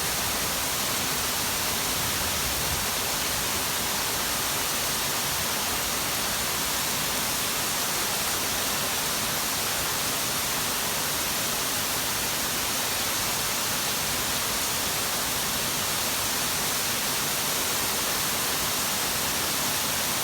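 Heavy rain in a downpour, falling hard as a steady, dense hiss that does not let up.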